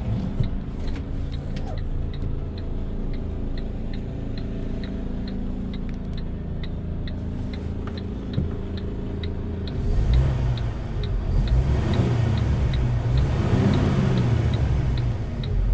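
Iveco Stralis truck's six-cylinder diesel engine idling steadily, with a light regular ticking about twice a second over it. About ten seconds in the engine gets louder and its pitch rises and falls, as if revved.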